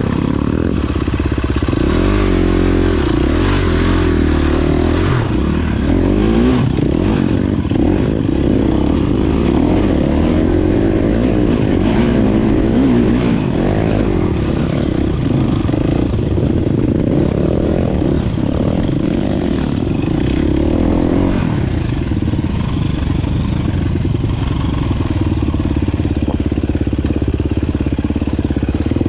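Dirt bike engine running as the bike is ridden, its revs rising and falling continuously.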